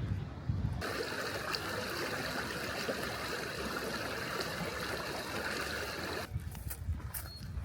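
Water running steadily as an even rush. It starts abruptly about a second in and stops suddenly about six seconds in.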